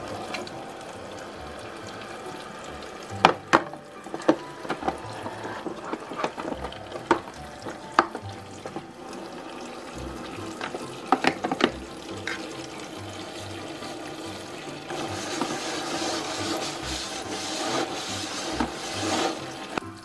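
Water running from a toy kitchen sink's faucet into its plastic basin, with sharp clicks and knocks of plastic toy dishes and a soap bottle a few seconds in and again near the middle. Louder splashing and rubbing from about three-quarters of the way through as a toy plate is washed under the water, over quiet background music.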